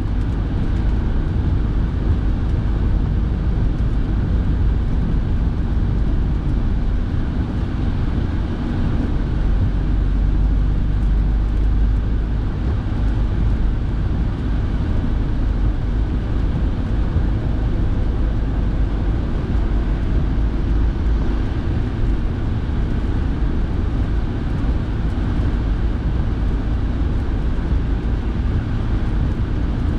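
A car driving, heard from inside the cabin: a steady low rumble of engine and tyres with the heater fan blowing.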